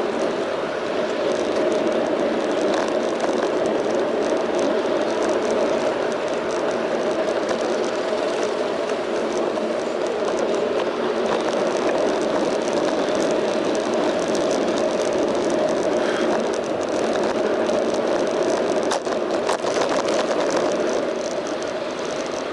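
Steady rushing road noise of a bicycle ride in town, wind and tyre noise on the bike's front-mounted action camera with traffic around, and a few faint clicks near the end.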